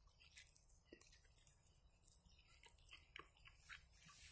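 Faint chewing of a belyash, a fried dough pie filled with meat, with soft, scattered mouth clicks.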